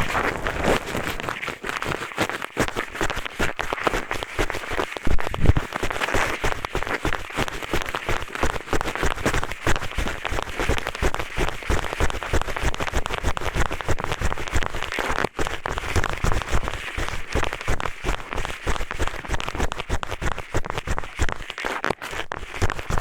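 Eyeglasses used as an ear pick, rubbed and scraped against a microphone's ear for ear-cleaning ASMR: a dense, continuous crackling scratch made of many rapid clicks.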